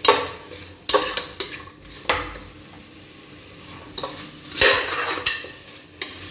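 Chicken sautéing in oil in a pot, stirred with a spatula: irregular scrapes and knocks against the pot over a faint sizzle, with a longer scraping stretch a little past the middle.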